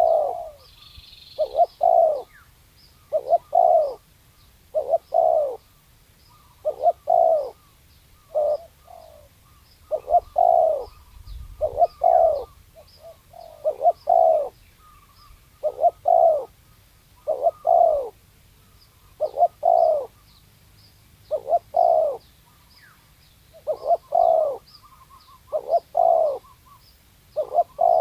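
Spotted dove cooing, the same coo phrase repeated over and over about every one and a half to two seconds. Faint high chirps tick along underneath.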